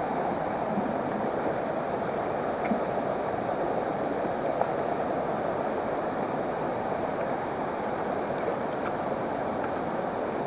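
Steady rush of a waterfall's falling water, with a few faint small ticks over it.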